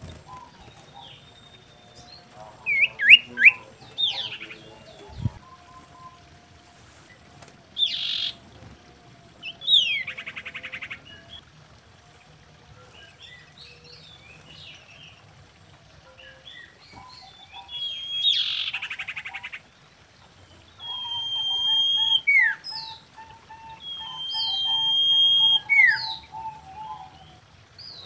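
Common iora singing: a varied run of short chirps and quick glides, two rapid buzzy trills, then near the end two long steady whistles, each ending in a quick downward note.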